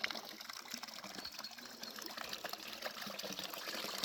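Water running steadily from a village spring fountain's spout and splashing.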